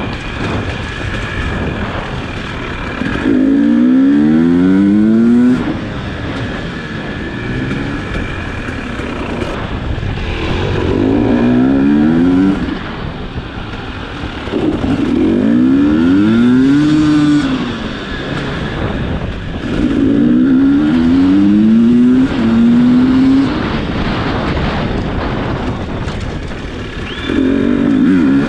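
Enduro motorcycle engine revving in repeated bursts, its pitch climbing under throttle about five times, with rougher low running between the bursts.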